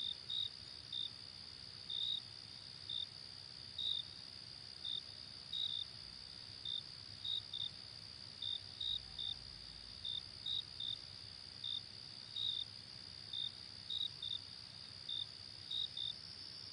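Insects chirping: a steady high trill with short separate chirps over it, about two a second, spaced unevenly.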